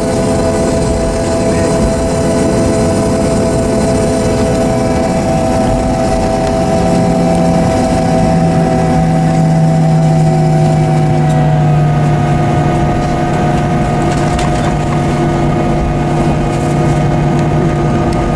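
Cabin noise of a Boeing 737-800 on the ground after landing: its CFM56-7B engines running, with a steady rush and several steady whining tones. A lower hum comes in about seven seconds in and holds.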